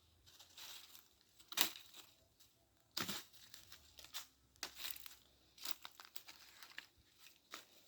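Irregular rustling and crackling of firewood and dry brush being handled, in separate bursts, the strongest about one and a half and three seconds in.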